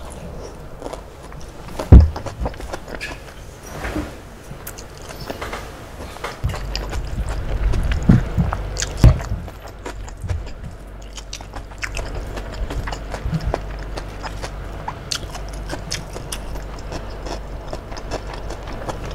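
Close-miked mouth sounds of eating: chewing and biting soft fried tofu and bean sprouts in peanut sauce, with scattered sharper clicks, the loudest about two seconds in.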